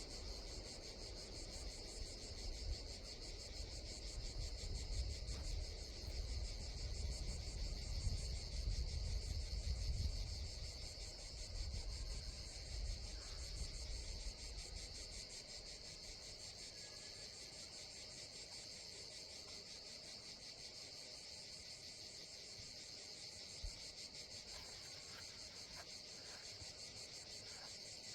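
A steady chorus of insects trilling in fast, even pulses. Under it a low rumble comes and goes for the first half, then dies away about fifteen seconds in.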